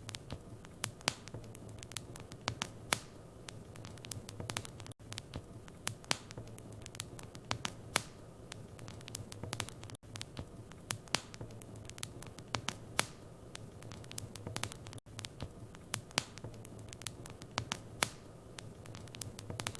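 Wood fire burning in a fireplace: irregular crackles and pops over a steady low hum, with a brief drop-out about every five seconds.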